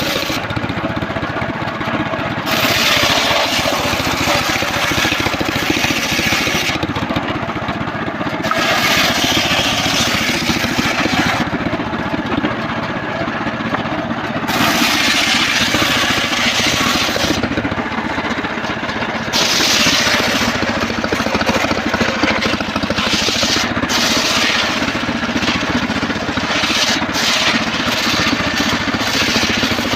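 A homemade engine-driven circular sawmill runs steadily while its blade saws rain tree (trembesi) timber. A hissing cutting sound comes in passes of about three to four seconds with short breaks between them, and breaks up into quick stops and starts in the last third.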